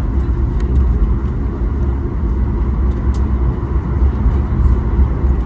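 Cabin noise of a Boeing 737 MAX 8 on the ground after landing: a steady low rumble of engines and wheels with faint scattered rattles.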